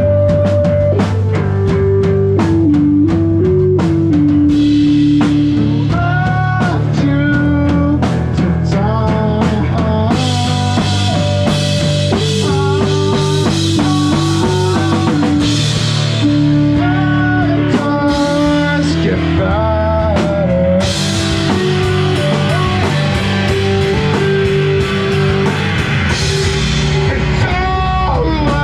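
A rock band playing live, with a drum kit and electric guitar, a melody line stepping up and down over it.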